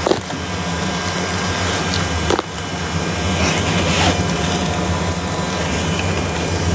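Many Asian giant hornets buzzing around their dug-out nest in a steady low drone. A few short cracks come through, near the start, about two and a half seconds in and about four seconds in, as the papery nest comb is handled and broken.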